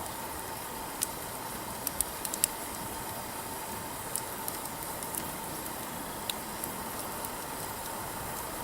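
Wood fire burning with a steady hiss and irregular sharp crackles and pops, a small cluster of them between about two and two and a half seconds in.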